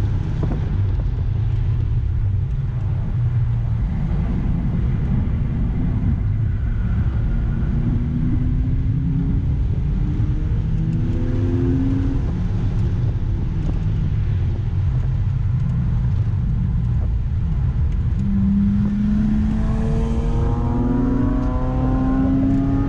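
A Mazda MX-5's four-cylinder engine heard from inside the cabin on track, over heavy low road and wind rumble. The engine note climbs about a third of the way in, drops back while the car slows, then rises strongly again over the last few seconds as it accelerates.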